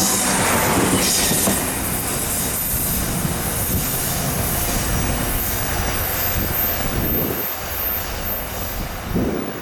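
Taiwan Railways local electric multiple-unit train running past on the line, with steady wheel-on-rail rumble and thin, high wheel squeal coming and going. It grows gradually fainter towards the end as it moves away.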